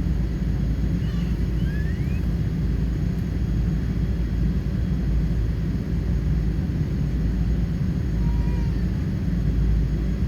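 Steady low rumble of a Boeing 777-300's cabin noise, heard inside the cabin, with no change in level.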